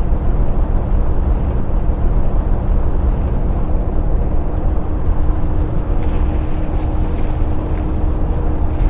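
Truck's diesel engine and road noise heard inside the cab: a steady low rumble, with a faint steady hum joining about three seconds in.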